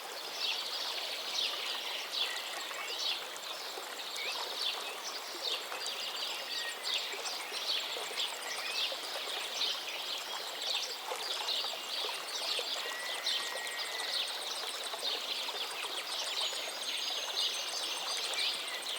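Many small birds chirping and twittering continuously over a faint, steady background rush, with an occasional short whistled note.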